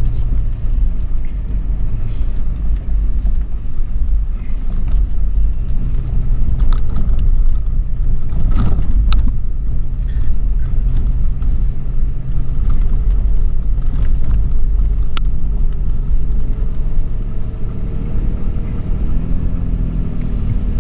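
2013 Toyota 4Runner's 4.0-litre V6 running steadily as the SUV drives off-road over sand dunes, with a few sharp knocks from the vehicle over bumps about nine and fifteen seconds in. The engine note climbs a little near the end.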